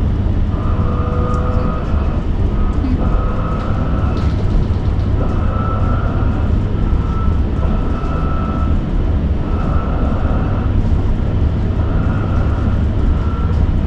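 Inside a moving electric bus: a steady low road rumble, with the high whine of the electric drive motor coming and going every second or two.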